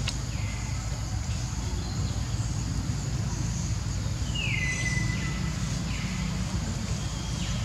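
Bird calls outdoors, repeated several times, each a high call gliding down and levelling off into a held whistle; the longest comes about halfway through. Under them runs a steady low rumble of outdoor noise.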